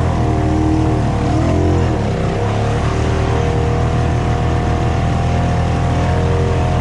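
ATV engine running hard, its pitch wavering up and down in the first couple of seconds, then holding steady.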